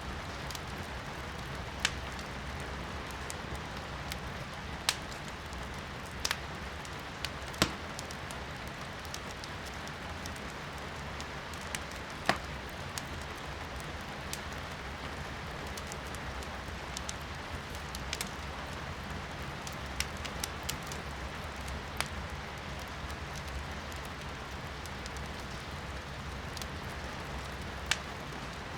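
Wood fire crackling in a fireplace, with sharp irregular pops from the burning firewood over a steady hiss of rain heard from indoors.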